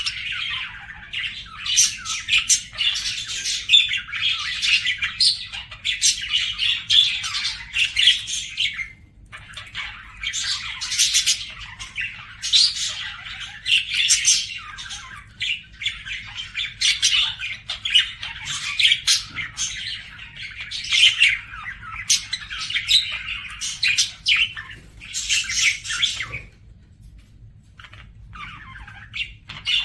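Budgerigars warbling and chattering almost without pause, with rapid chirps and squawks and brief lulls about nine seconds in and near the end.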